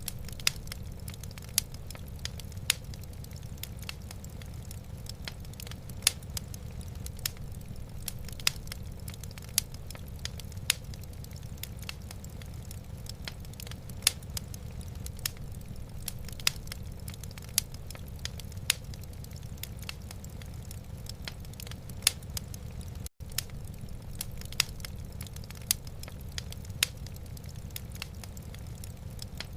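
Wood fire burning in a fireplace, crackling with irregular sharp pops over a steady low rumble. The sound cuts out for an instant about 23 seconds in.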